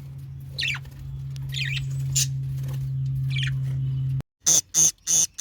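Birds calling: several short calls that sweep downward in pitch over a steady low hum. After an abrupt cut, three loud, sharp, high chirps follow in quick succession.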